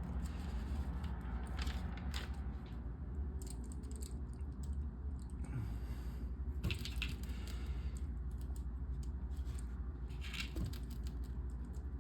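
Plastic LEGO pieces handled and clicked together, with scattered short clicks and rustles over a steady low hum.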